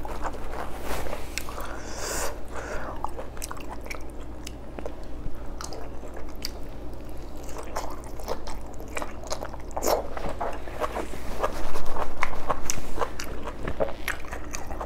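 Close-miked eating sounds: chewing and lip smacking of boiled beef oxtail meat eaten by hand, with many small wet mouth clicks. It gets louder for a second or so near the end.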